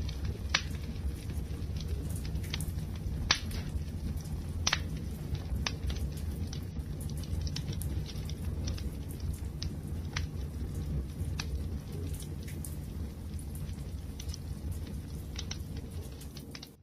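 Wood fire crackling: a steady low rumble of burning with sharp pops and snaps at irregular intervals, a few louder pops in the first five seconds.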